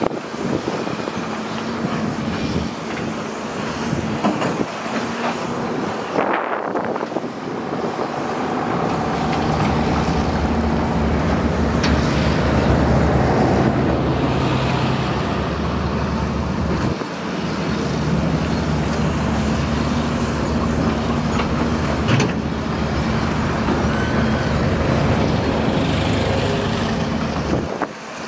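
Diesel engine of a heavy earthmoving machine running and working under changing load, its drone swelling and easing several times, with a few sharp knocks along the way.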